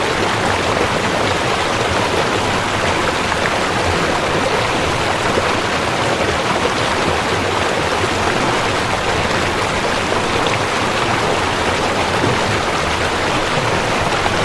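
Waterfall: water falling and rushing in a steady, loud, unbroken noise.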